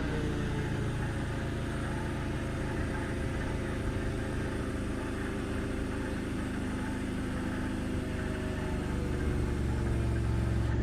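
Forklift engine running steadily while the forks lift a load, getting a little louder near the end.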